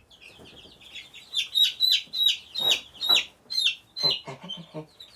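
Baby chicks peeping: rapid, high-pitched, falling peeps, several a second, that start about a second in and grow louder.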